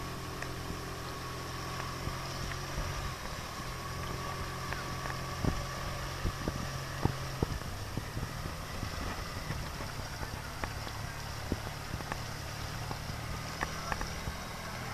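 Small river ferry boat's engine running steadily, with a few short knocks in the middle.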